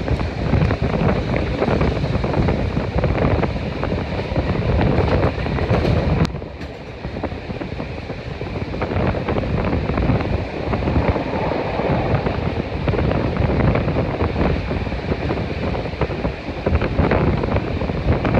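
Wind buffeting the microphone over the running noise of a steam-hauled passenger train at speed, heard from an open carriage window behind Beyer-Garratt 6029. The noise drops suddenly about six seconds in, then builds again.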